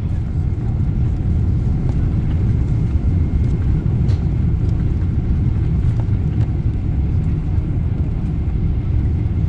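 Boeing 777-300ER on its landing roll just after touchdown, heard from inside the cabin: a steady, loud low rumble of the airliner decelerating down the runway, with a few faint clicks.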